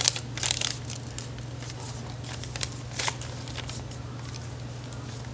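Sheet of paper being handled and creased while folding an origami crane: short crisp rustles and crinkles, a cluster in the first second and another about three seconds in, over a steady low hum.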